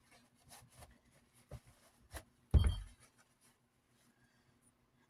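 Paper towel wiping dust off fan parts: faint scattered rubbing and small taps, with one louder knock about two and a half seconds in.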